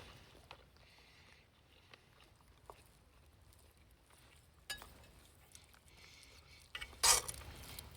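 Quiet eating at a meal: a few faint clicks of utensils, then a louder brief scraping noise about seven seconds in.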